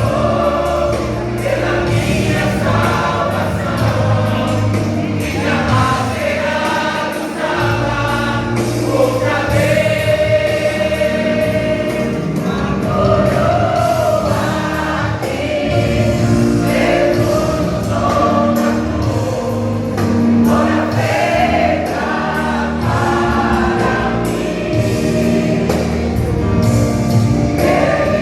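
Vocal group singing a Portuguese gospel song in harmony, with instrumental accompaniment.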